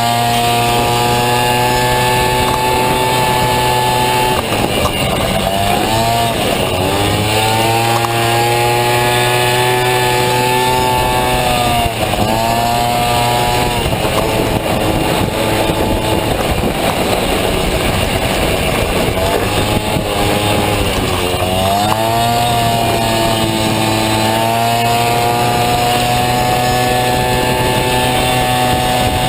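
Honda Motocompo scooter's Dio 50cc two-stroke engine running hard at high revs, its pitch held nearly steady. The pitch dips and climbs back three times, about 6, 12 and 21 seconds in.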